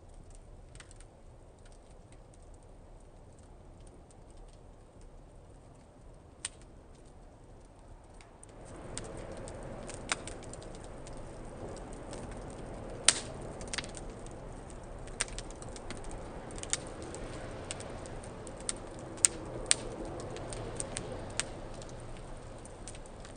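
Newspaper and wood kindling fire in a fire pit stand, crackling with scattered sharp pops. About eight seconds in, a steady rushing of flames rises beneath the crackles, and the pops come more often.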